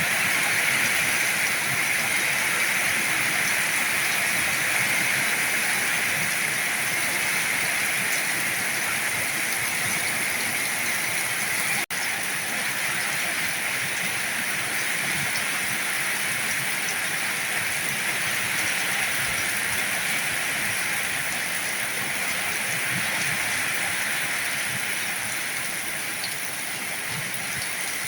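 Heavy rain falling steadily, a dense even hiss of water, with a split-second dropout near the middle and a slight easing toward the end.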